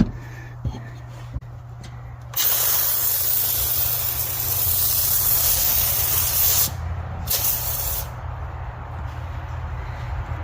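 Hand-pumped iK Foam Pro 2 sprayer spraying foam, a steady hiss lasting about four seconds that starts about two seconds in, followed by a short second spray.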